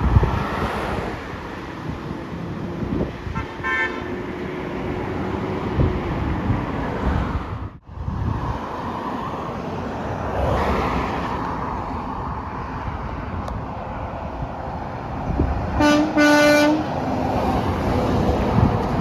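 Passing road traffic with a truck horn: one faint short honk about four seconds in, then two short loud blasts near the end.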